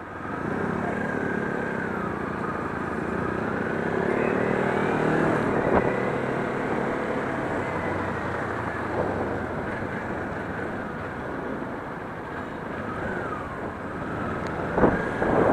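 Kawasaki Ninja 400 parallel-twin engine and road noise while riding in city traffic, the engine note rising a few seconds in. A cluster of loud knocks comes near the end.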